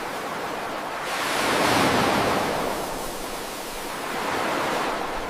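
A steady rushing noise, like surf or wind, that swells about a second in, eases off and builds again near the end.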